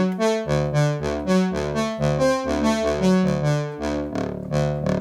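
Roland JX-3P analog synthesizer with the Kiwi-3P upgrade playing its 'Brass 2' brass patch: synth-brass chords and bass notes struck in a quick, steady rhythm.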